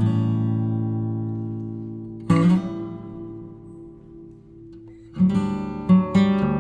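Background music of an acoustic guitar strumming chords that ring out and fade, with a new chord every two to three seconds and quicker strums near the end.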